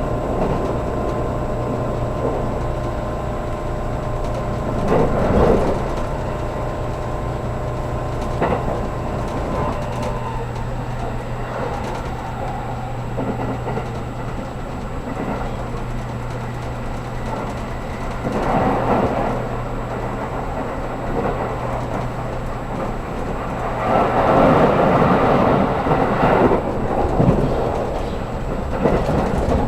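Interior running noise of a 783-series limited-express train: a steady rumble and hum, with a pitched whine that gives way to a lower hum about a third of the way in, and louder swells of rushing noise several times.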